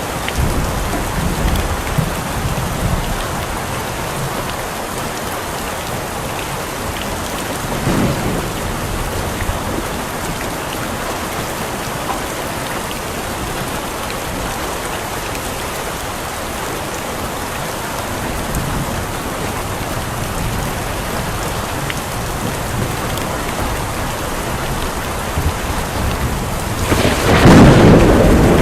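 Steady heavy rain, with low rumbles of thunder now and then and a loud thunderclap near the end.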